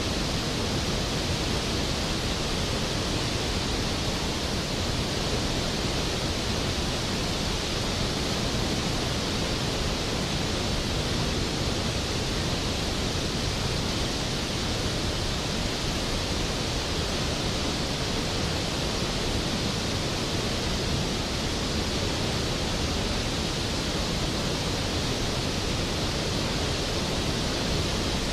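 Skógafoss, a large waterfall, pouring steadily: an unbroken, even rush of falling water.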